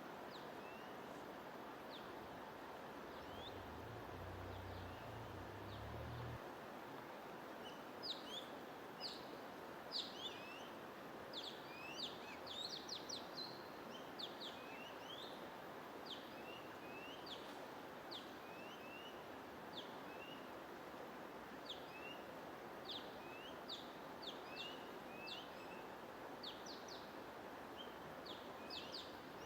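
Small birds chirping, many short high chirps and quick rising or falling notes, sparse at first and then thick and overlapping from about eight seconds in, over a steady rushing noise bed of white noise or flowing water.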